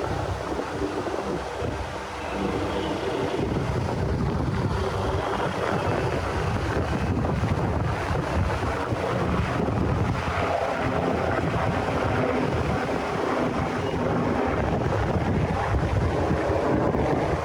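Wind blowing across the microphone: a steady rumbling noise, heaviest in the low end, that rises and falls slightly without a break.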